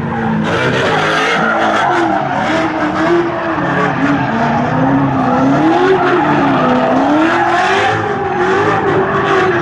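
Muscle car V8 doing a burnout: the engine is held at high revs, its pitch wavering up and down as the throttle is worked, while the spinning rear tyres squeal.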